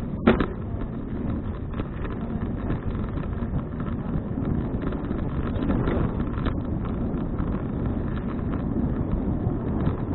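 Wind buffeting a bike-mounted action camera's microphone while riding, over a steady low rumble. One short sharp knock about a quarter second in.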